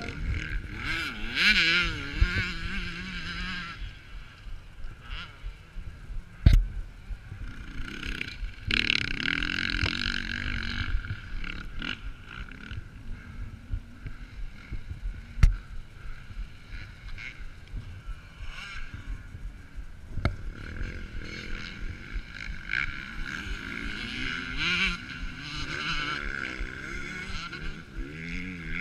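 Motocross motorcycles racing, their engines revving up and down as they pass, with two sharp knocks about a third and halfway through.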